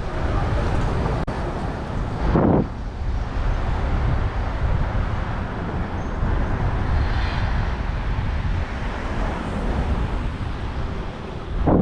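Wind buffeting the microphone of a camera on a moving bicycle, over city street traffic noise, with a louder surge about two seconds in and another near the end.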